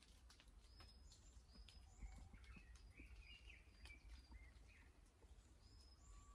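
Near silence with faint forest bird calls: scattered short, high chirps and whistles.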